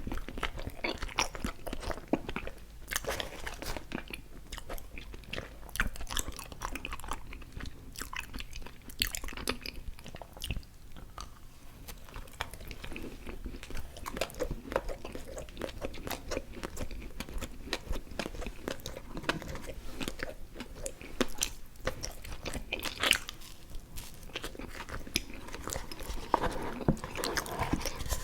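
Close-miked chewing of chewy fruit candies, a dense run of sticky, wet mouth clicks and smacks with the odd crunch.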